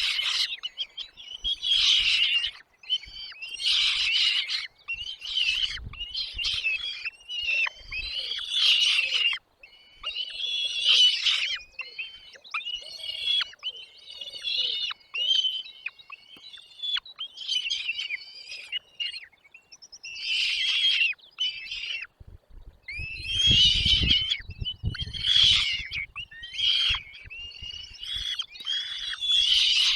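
Small birds at a nest chirping and calling in rapid, repeated bursts. A low rumble joins in from about two-thirds of the way through.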